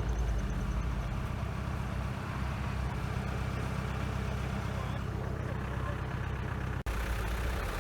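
Off-road vehicle engine running steadily at low revs, with a deep, even rumble. The sound breaks off for an instant about seven seconds in.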